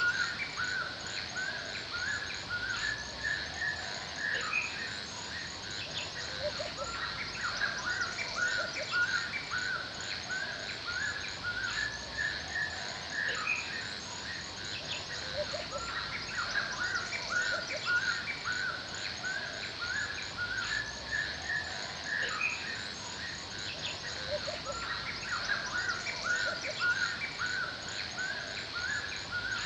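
Forest ambience: many birds chirping in quick, overlapping short calls over a steady high-pitched hum.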